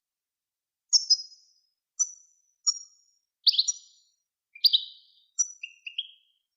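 Songbird song from a bird-tutoring recording: a string of about ten short, separate chirps and trill phrases, some high and ringing, some dropping lower, with clean silent gaps between them.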